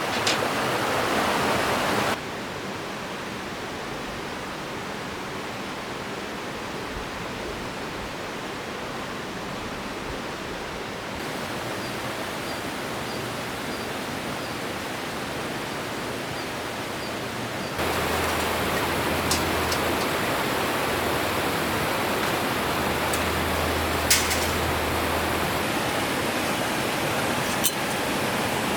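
Steady rushing noise, changing abruptly in level a few times, with a few sharp clicks in the last part.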